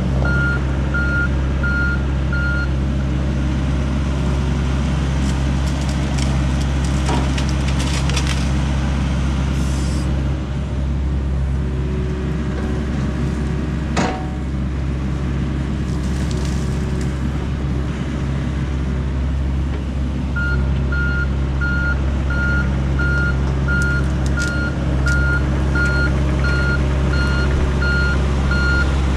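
Diesel engine of a John Deere 60G compact excavator running steadily, with its travel alarm beeping about twice a second briefly at the start and again from about two-thirds of the way in, a sign the machine is tracking. A single sharp crack about halfway through.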